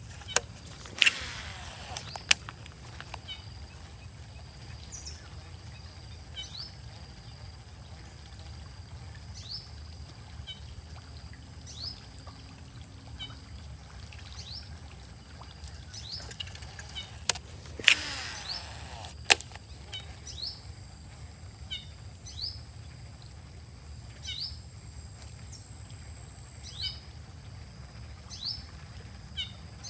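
A bird calls over and over with short falling chirps, over a steady high insect-like drone and low outdoor rumble. Two brief bursts of swishing with sharp clicks come about a second in and again around eighteen seconds.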